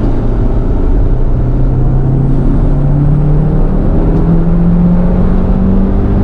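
Toyota MR2 SW20's mid-mounted four-cylinder engine pulling under acceleration, heard from inside the cabin, its note climbing smoothly and steadily in revs with no gear change, over steady road noise.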